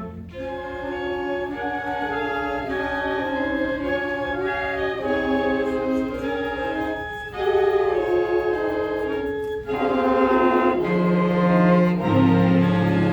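Band music: slow, sustained chords, with low notes coming in loud near the end.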